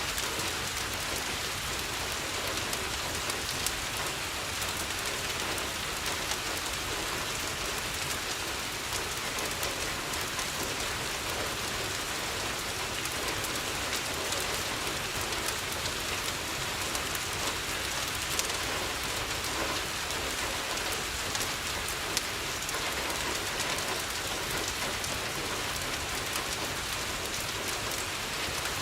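Steady rain falling on a window, with scattered small ticks and pops throughout.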